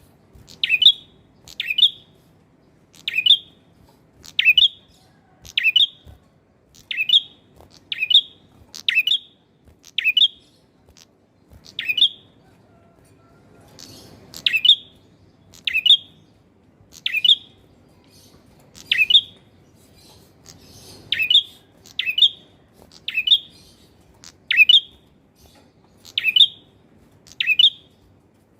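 Male prinia (prenjak kepala merah) calling: a long series of short, sharp chirps, about one a second, with a pause of a couple of seconds a little before halfway.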